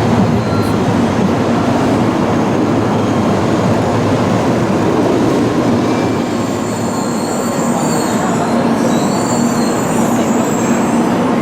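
Inside an N700-series Shinkansen car, the train running with a steady, loud rumble and rush. About six seconds in, thin high-pitched tones join the rumble and fade out again near the end.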